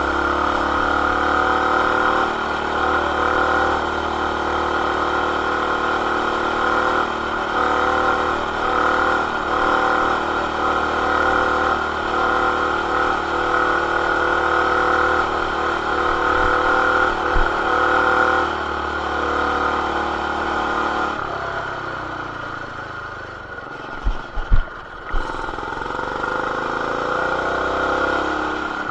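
Coleman BT200X mini bike's small single-cylinder engine with a stage 1 intake, header and RLV exhaust, running at a steady high speed while riding. About two-thirds of the way in it drops off, a few sharp knocks follow, and then it picks up again near the end. It is heard muffled through the camera's plastic case.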